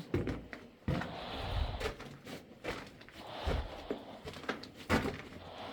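Footsteps crunching and scuffing on a rocky mine floor, in irregular steps with a few sharper knocks.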